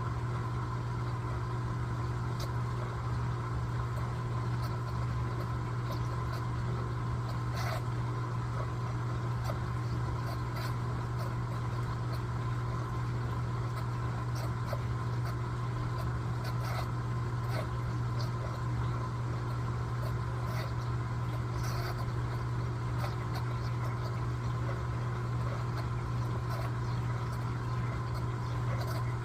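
Electrolux LTA15 top-loading washing machine running through its wash cycle: a steady low motor hum with occasional faint clicks.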